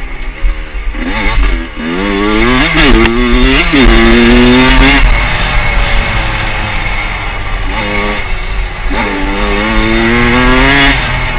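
Motorcycle engine accelerating through the gears, its pitch climbing in steps with a brief dip at each shift, then holding steady; a second run of upshifts comes near the end. A steady low rumble runs underneath.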